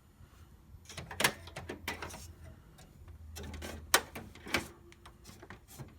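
Clicks and knocks of hard plastic printer parts being handled, with sharp knocks about a second in and again around four seconds in.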